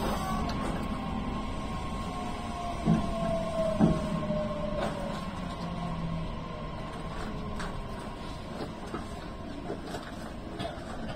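Meitetsu electric commuter train running through a tunnel, heard from the driver's cab: steady rumble of the wheels on the rails with a motor whine that falls slowly in pitch. Two louder knocks about three and four seconds in, with fainter clicks later.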